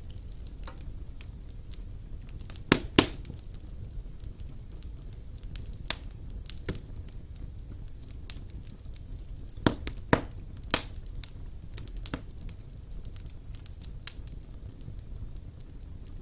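Wood fire burning in a fireplace: a steady low rumble of the flames with irregular sharp crackles and pops from the burning logs, the loudest two pairs about 3 and 10 seconds in.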